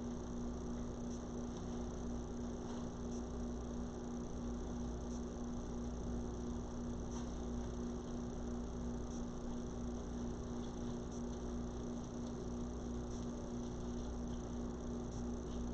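Steady low electrical hum over a faint even hiss, with no distinct event: room tone.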